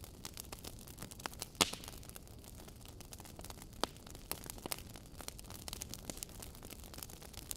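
Wood fire burning in a fireplace, logs crackling with irregular sharp pops over a low steady hiss; the loudest pop comes about a second and a half in.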